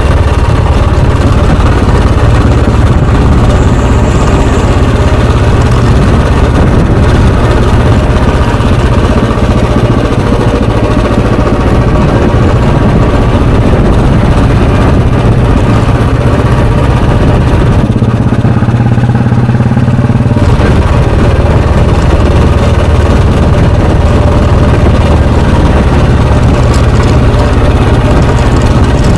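Royal Enfield Bullet 350's single-cylinder, air-cooled four-stroke engine running steadily under way, its exhaust loud and even. About two-thirds of the way in, the engine note changes for a couple of seconds, then settles back to the same steady running.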